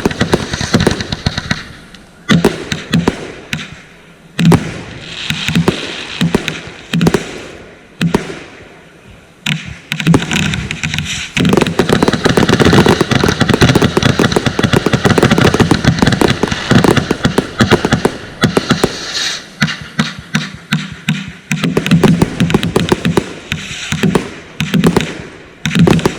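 Consumer fireworks going off in quick succession: a run of sharp bangs and crackle that thickens into a dense, unbroken barrage for several seconds around the middle, then breaks back into separate bangs.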